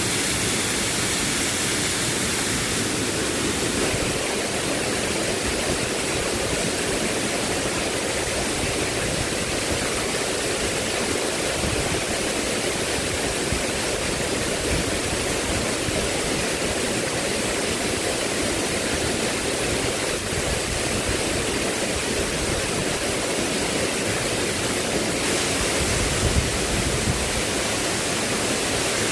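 Steady rushing of water, as of heavy rain or floodwater, with a few low thumps near the end.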